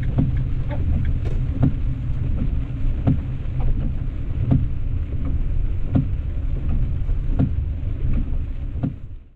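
Road noise inside a van's cabin while driving: a steady low rumble, with a short tick repeating about every second and a half.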